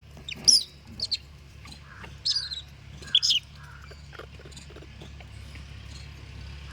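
Short, shrill, high-pitched animal calls, four loud ones in the first three and a half seconds and fainter chirps after, over a steady low hum.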